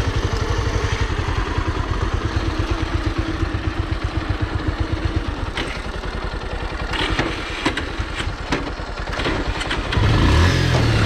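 Bajaj Pulsar NS160 and Pulsar 150 single-cylinder engines idling side by side at a standstill, with a steady pulse. A few sharp clicks come in the middle. About ten seconds in, the engine sound steps up and holds louder and steadier, with the revs raised ready for a drag-race launch.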